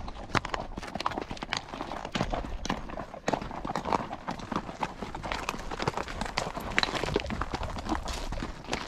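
Horse hooves clip-clopping on a dirt trail, an irregular run of hoofbeats several times a second.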